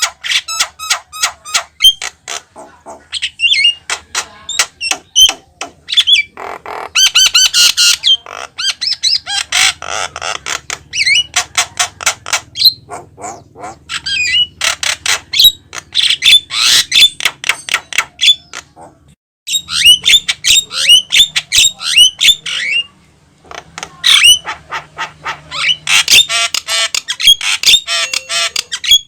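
Javan myna singing in full voice: a fast, varied chatter of rapid clicks, harsh squawks and short whistled notes, broken by one brief pause about two-thirds of the way through.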